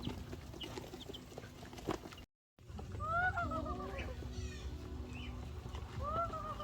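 Farmyard poultry calling: scattered short clucks, a brief break in the sound, then a couple of arching calls, one about three seconds in and another near the end.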